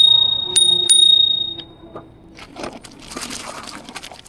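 Bicycle bell rung three times in quick succession, each strike a bright ring that dies away over about a second. Softer rustling noise follows.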